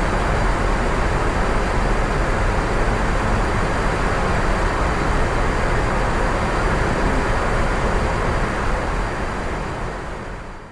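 Steady rushing noise of air and engines on the flight deck of an Airbus A350-900, fading out near the end.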